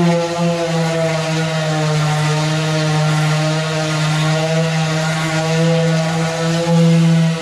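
Power sander running steadily on a truck's aluminum fuel tank, at one even pitch with a strong hum, during sanding with 220-grit paper.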